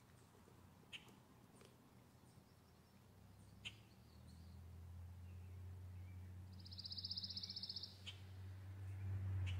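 A bird's high, rapid trill lasting just over a second, about two-thirds of the way in, with a few brief chirps before and after it. A low rumble grows louder toward the end.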